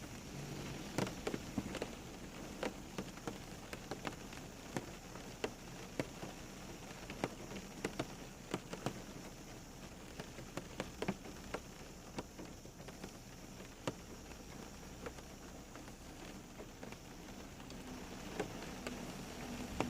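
Rain falling steadily, with many heavy drops striking a surface at irregular intervals. A low steady hum comes in near the end.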